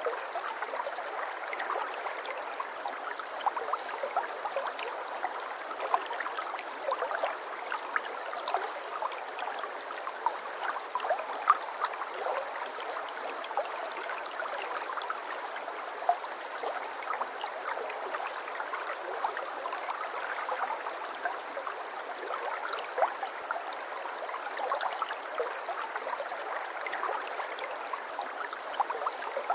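A shallow babbling brook: water steadily trickling and gurgling over stones, with many small splashes and plinks.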